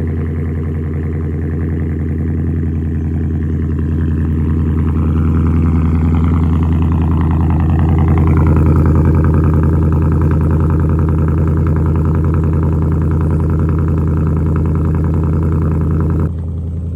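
2024 Ford Mustang GT's 5.0-litre V8 idling steadily just after a cold start. It runs through a muffler-delete exhaust with the stock resonator still in place and no active exhaust valves. The level swells a little over the first several seconds and drops suddenly shortly before the end.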